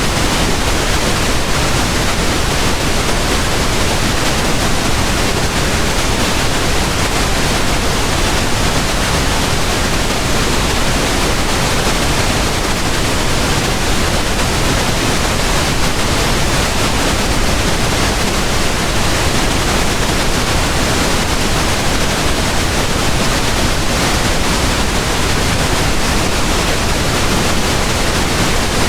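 Steady pink noise: an even, unchanging hiss spread across the whole range from low to high, with no events in it.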